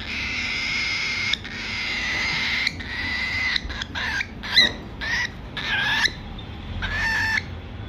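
Baby cockatiel's harsh, raspy begging calls during hand feeding: three long calls, then a string of shorter ones.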